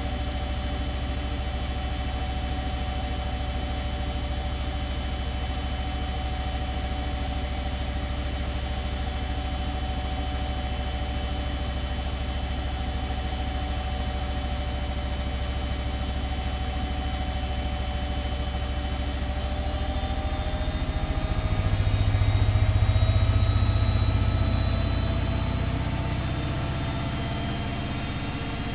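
Atlant 70C1010 washing machine running, with a steady motor whine over a low drum hum. About two-thirds of the way through, the whine starts rising as the drum speeds up into a spin, and a louder low drone swells for a few seconds before easing.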